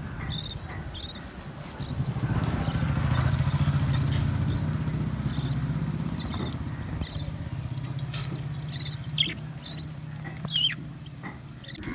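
A motor vehicle's engine hum that swells about two seconds in and slowly fades away, as it would when passing by. Short, high parrot chirps come through over it, with a couple of louder calls near the end.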